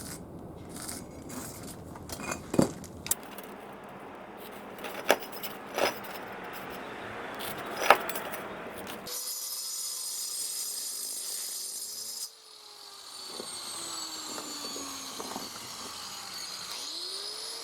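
Bricks clacking and knocking as they are set and shifted into place, about five sharp knocks over the first eight seconds. About nine seconds in the sound changes abruptly to a quieter background with faint steady and slowly sliding whining tones.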